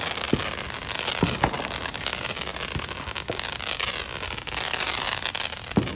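Fireworks going off: a dense, continuous crackle with about half a dozen sharp bangs, the loudest near the end.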